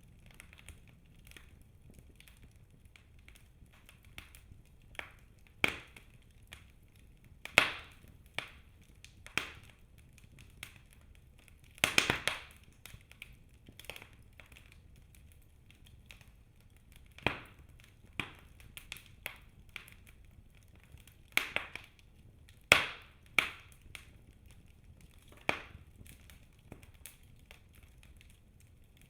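Wood fire burning in a fireplace: irregular sharp crackles and snaps every second or so, some much louder pops among them, with a cluster of snaps near the middle, over a low, steady rumble of the flames.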